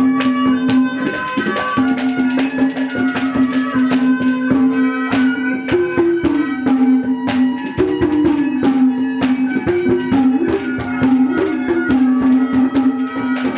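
Instrumental Haryanvi ragni folk music: fast, steady hand-drumming under one held melody line that rises and falls back several times.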